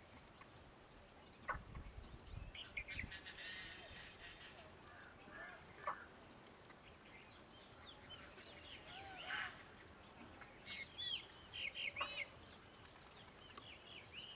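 Birds calling with short, high, arched chirps, scattered at first and then in quick runs of several notes near the end, with a few sharp clicks between them.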